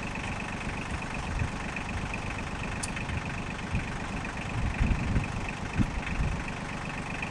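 Engine idling steadily, with a few louder low thumps about five to six seconds in.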